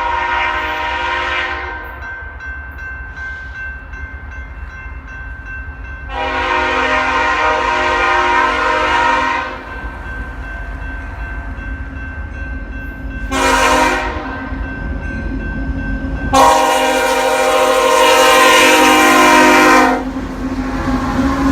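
Nathan K5HL five-chime air horn on a leading EMD SD70MAC locomotive sounding the grade-crossing signal: long, long, short, long. The first blast is already sounding at the start and the last runs about three and a half seconds, all over the steady low rumble of the train.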